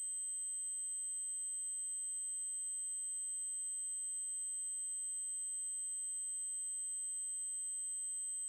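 Synthesized 8192 Hz triangle-wave test tone: one steady, very high-pitched note that does not change.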